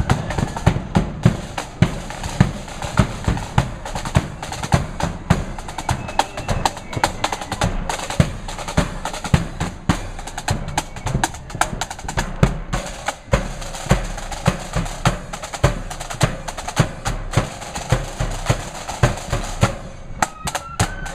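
Marching flute band's drum section playing on its own: snare drums rolling and rattling over a steady bass-drum beat, about two strong beats a second. The flutes come in with a tune near the end.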